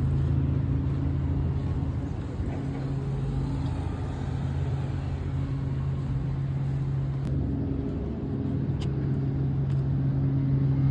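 Semi truck's diesel engine idling with a steady, even hum, and a couple of light clicks partway through.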